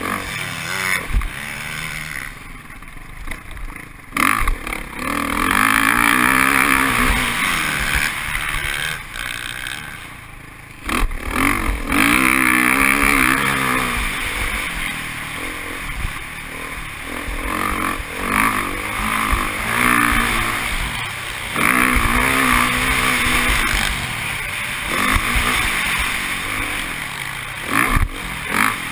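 Motocross bike engine heard on board, revving up hard and dropping off again over and over as the throttle opens and closes. A few sharp knocks cut in, about four and eleven seconds in and near the end.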